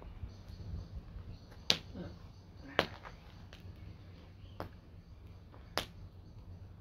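Wood campfire crackling: a few sharp, scattered pops, the loudest about two and three seconds in, over a low steady rumble.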